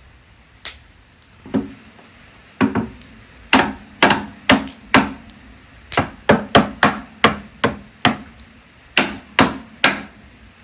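Firewood being chopped: about eighteen sharp, uneven blows of a tool on wood, coming faster in the middle of the stretch, each with a short dull ring.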